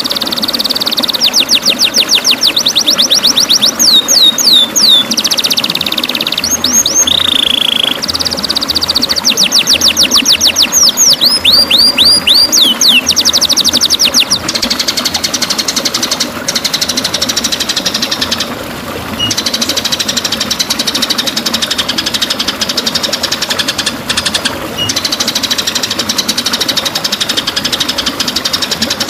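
White-rumped shama (murai batu) singing loudly: fast runs of sharp, high repeated notes, the rapid 'tembakan' volleys, giving way about halfway through to a dense, continuous buzzing trill broken only by short pauses.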